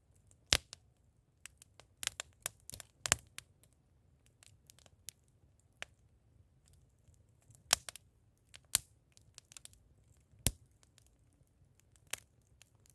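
Bonfire of firewood, coal and tyres crackling: irregular sharp cracks and pops, a handful of them loud, with quiet between.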